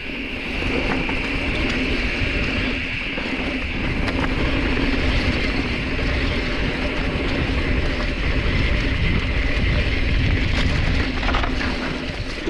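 Specialized Stumpjumper mountain bike rolling down a dirt trail: a steady low rumble of tyres and wind on the microphone, with a steady high hum and a few small rattles from the bike.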